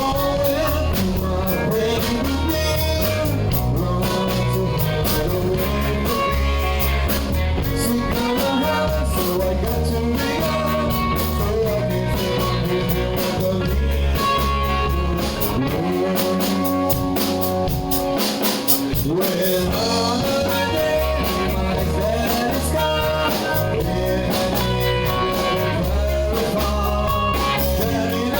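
Live rock band playing with electric guitar, bass and drum kit, and a singing voice.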